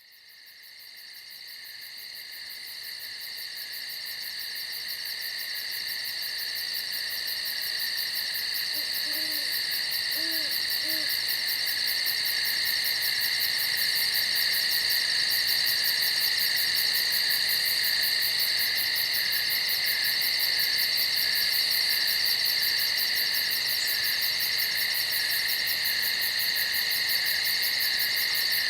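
A steady, shrill chorus of night insects fading in over the first ten seconds or so. An owl hoots faintly three times about ten seconds in.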